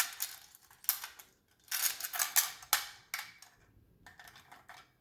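A Cuban Amazon parrot working a puzzle toy, its pieces clicking and rattling in several quick bursts.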